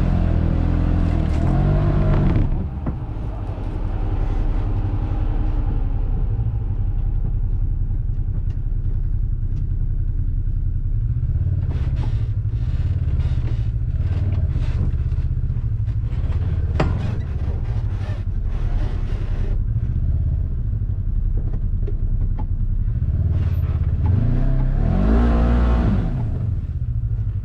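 Side-by-side UTV engine running under way on a trail, its pitch rising and falling as it speeds up and slows down near the start and again near the end. From about twelve to seventeen seconds in, a string of rattles and knocks sounds over it.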